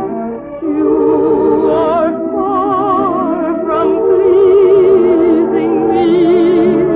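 Operetta singing with a studio orchestra, heard as an old radio broadcast recording: a trained voice with wide vibrato holds long notes, with a short break about half a second in and one long sustained note near the end.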